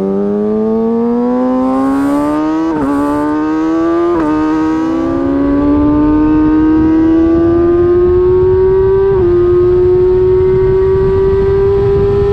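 Kawasaki Ninja ZX-6R's inline-four engine accelerating hard through the gears: its pitch climbs steadily and drops suddenly at upshifts about three, four and nine seconds in. Wind noise on the microphone grows as speed builds.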